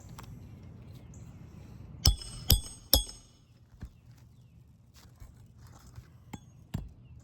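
Three hammer blows on metal about half a second apart, each with a bright metallic ring, followed by a few lighter taps and clicks. It is the roof snake and hammer at work on roofing nails under asphalt shingles.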